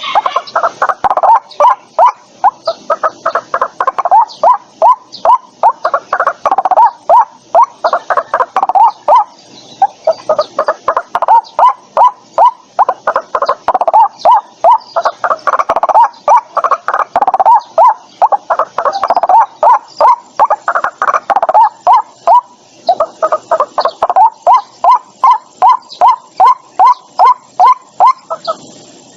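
White-breasted waterhen calling: a long, rhythmic series of short repeated notes, about three to four a second, in bouts broken by brief pauses about a third of the way in and again about three-quarters through.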